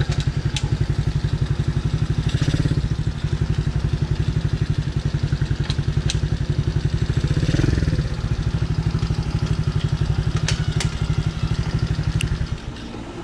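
TaoTao DB14 dirt bike's 110cc four-stroke single-cylinder engine idling with an even pulse, with a few sharp clicks and rattles over it. The engine sound stops near the end.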